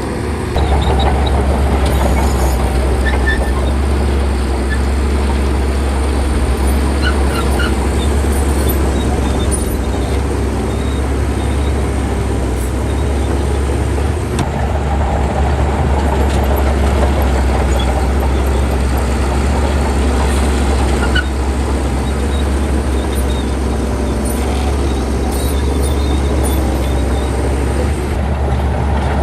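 Heavy diesel engine of an earthmoving machine running steadily, with a deep, constant low rumble throughout.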